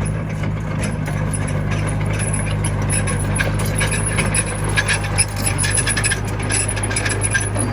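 Komatsu mini bulldozer's diesel engine running steadily under a busy, irregular metallic clicking and clanking of the working machine.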